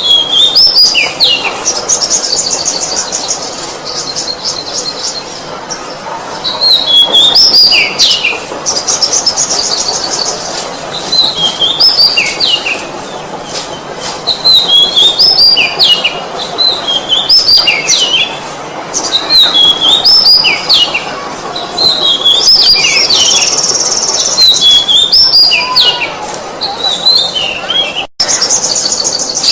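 Oriental magpie-robin singing: short phrases of rising and falling whistles repeated every second or two, broken by rapid buzzy trills. The sound cuts out briefly near the end.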